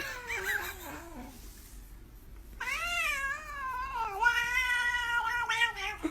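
A cat caterwauling: one drawn-out call that slides down in pitch over about a second, then after a short pause a longer wavering howl of about three and a half seconds that rises and falls and slowly sinks.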